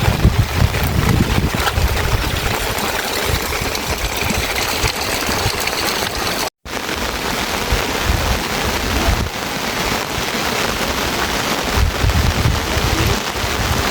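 Heavy rain falling steadily, with gusts of wind buffeting the microphone near the start and near the end. The sound cuts out for an instant about halfway through.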